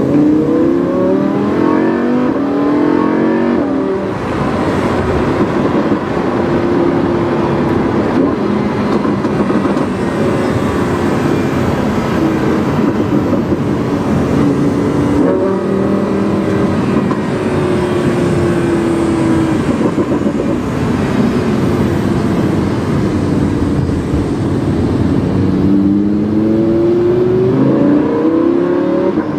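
Lamborghini Huracán's V10 with a PowerCraft aftermarket exhaust, heard from on board while driving. The engine note climbs under acceleration at the start and again near the end, and in between holds steady or sinks slowly, with a brief climb about halfway through.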